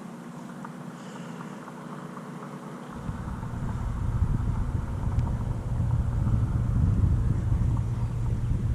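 Wind buffeting the camera microphone, a fluctuating low rumble that comes in about three seconds in and grows louder.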